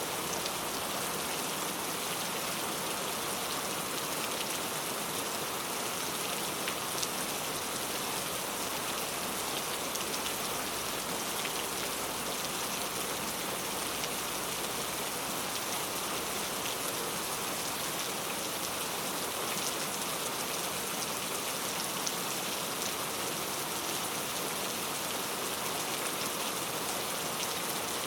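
Steady rain falling and pattering on a surface, with individual drops ticking through an even hiss.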